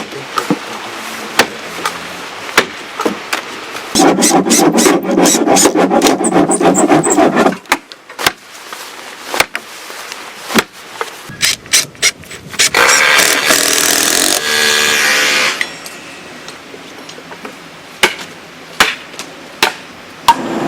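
Hand work on timber: irregular sharp hammer knocks, with two longer spells of loud rasping, sawing-like noise, one about four seconds in and a brighter, hissier one about twelve seconds in.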